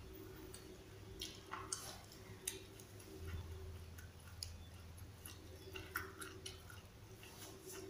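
Faint chewing of raw lamtoro (leucaena) leaves: scattered soft crunches and mouth clicks over a low steady hum.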